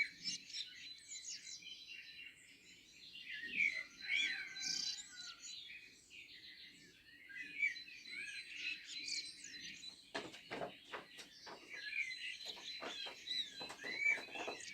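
Several songbirds singing at once, a dense overlap of high chirps, whistles and trills. In the second half a run of irregular soft knocks sounds beneath the birdsong.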